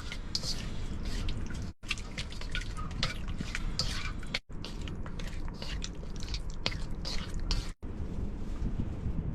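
Chopped pork ribs being mixed by hand in a bowl of black-bean sauce marinade: a run of quick, irregular wet clicks and squelches, cut off briefly three times.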